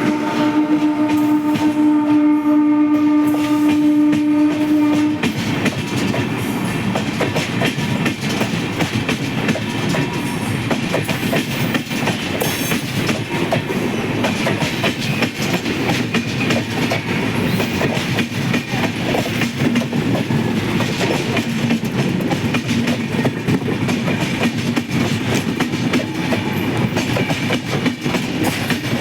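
Dual-tone horn of a WAP-7 electric locomotive held in one long blast that stops about five seconds in, then the express's coaches rolling by with a steady clickety-clack of wheels over rail joints.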